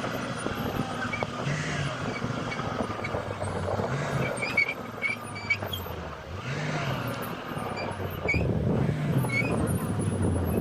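Heavy diesel excavator engines running under load, swelling and easing every couple of seconds, with scattered high squeaks and knocks.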